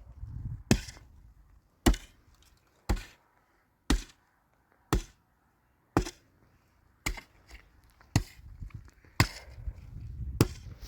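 A steady series of sharp strikes, about one a second and ten in all, each one a short hard impact.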